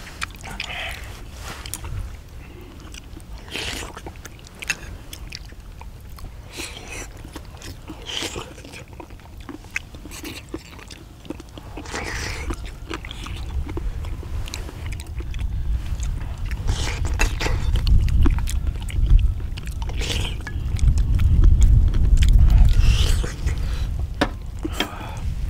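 Several people eating spicy braised chicken and beef intestines with chopsticks and a spoon: chewing and short, scattered mouth and utensil clicks. A low rumble builds through the second half.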